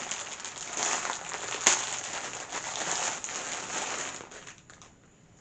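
Packaging crinkling and rustling as a plush toy is unwrapped and handled, with one sharp click about a second and a half in. It dies away near the end.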